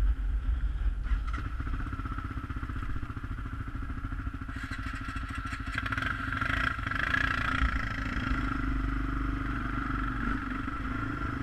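ATV engine running steadily while riding, its low engine note constant. A rougher, louder noise joins about four and a half seconds in.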